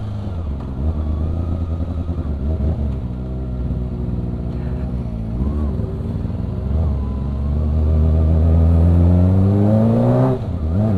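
Kawasaki ZX-25R's inline-four engine under way, its pitch rising and falling with the throttle, then climbing steadily through the second half before dropping sharply near the end.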